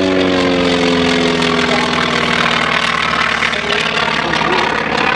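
A World War II propeller warplane flying past. Its engine and propeller drone drops steadily in pitch as it goes by, levelling off about two and a half seconds in.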